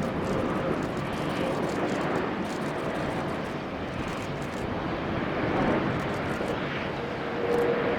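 Jet airliner's engines heard as a steady, even rushing noise that holds its level throughout.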